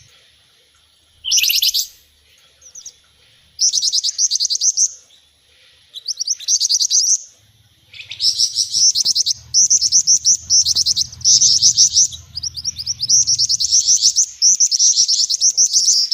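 Bird-luring recording mixing the calls of gelatik batu (cinereous tit), jingjing batu and mantenan birds: short bursts of rapid, high chirping trills. They are spaced apart at first and come almost without a break from about halfway.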